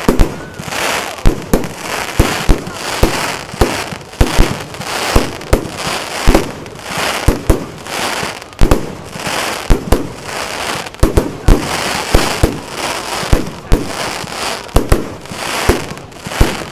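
Fireworks going off in a rapid, irregular barrage of sharp bangs, several a second, over a constant crackle.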